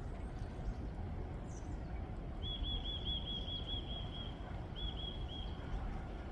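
Wind buffeting the microphone in a steady low rumble, while a small songbird sings a fast trill of repeated high notes starting about two seconds in, breaking off briefly and adding a few more notes near the end.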